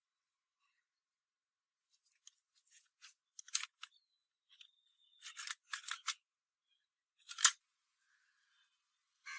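A scattering of short, sharp clicks and snips. There are a few around three and a half seconds in and a quick cluster between five and six seconds, and the loudest single click comes about seven and a half seconds in.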